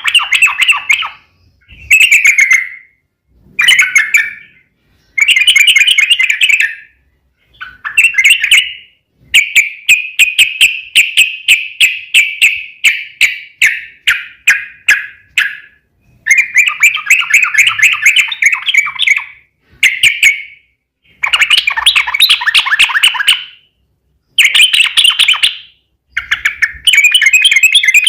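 Yellow-vented bulbul (trucukan) singing loud phrases of rapid, bubbly chirps, each one to three seconds long with short pauses between. About nine seconds in it breaks into one long continuous run of notes lasting some seven seconds, the long 'ropel' that the song is kept for.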